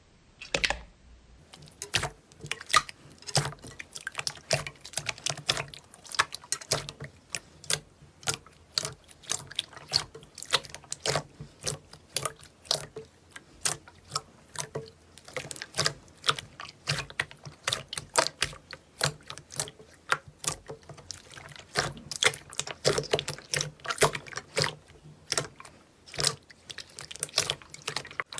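Slime being squeezed and worked by hand: a dense run of irregular wet clicks and pops, several a second.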